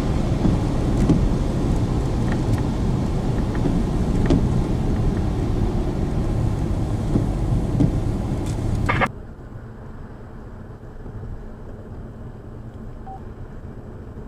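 Steady rumble of a vehicle's interior with the engine running, with scattered light clicks. About nine seconds in there is a short crackle and the sound drops suddenly to a much quieter hiss.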